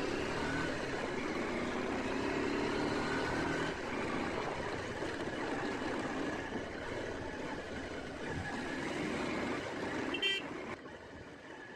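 Motorcycle engine running with road noise while riding, with one short horn toot about ten seconds in.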